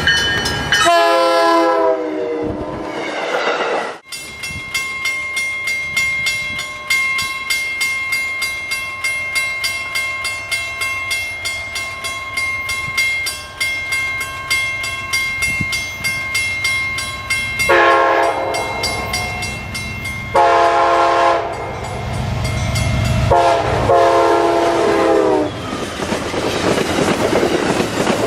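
An Amtrak GE P42 Genesis locomotive's Nathan K5LA five-chime horn, whose notes sound rough around the edges rather than refined. It sounds at the start, dropping in pitch as it passes. After a stretch of steady ringing with a regular beat, it gives three blasts of two to three seconds each, and the train rumbles past near the end.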